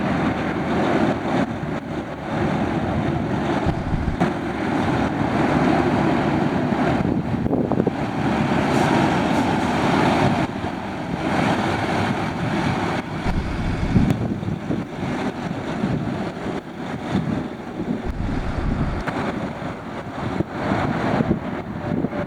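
Semi-truck engine running, heavily covered by wind buffeting the microphone, with strong gusts about 13 and 18 seconds in.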